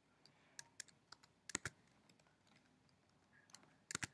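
Typing on a computer keyboard: a few scattered key clicks with pauses between them, a quick pair about a second and a half in and a short cluster near the end.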